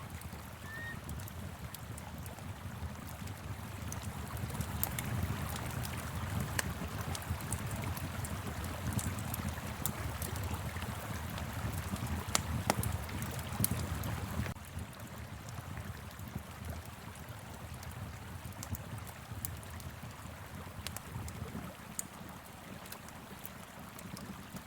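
Wood fire crackling with scattered sharp pops over the steady rush of a flowing river and wind. The rushing noise drops in level a little past halfway through.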